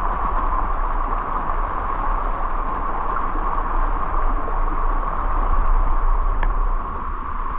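Steady rushing of waterfall and river water, a dense unbroken noise with a deep low rumble under it. A brief faint click about six and a half seconds in.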